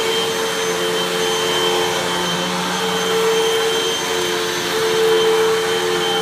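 Hoover WindTunnel 2 Rewind Pet upright vacuum running on carpet, a steady motor whine and airflow rush that swells a little now and then.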